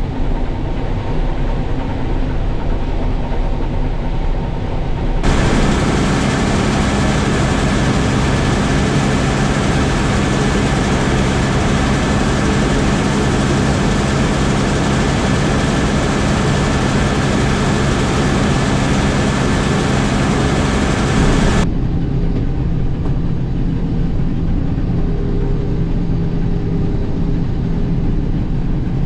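International Harvester 1440 combine running steadily under load while harvesting soybeans, a constant machine hum. From about five seconds in to about twenty-two seconds a loud, even hiss joins it, starting and stopping abruptly.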